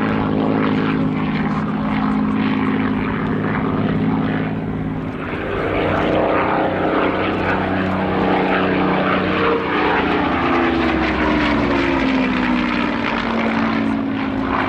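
Hawker Hurricane's Rolls-Royce Merlin V12 piston engine running as the fighter flies a display pass; its pitch falls as it goes by in the second half.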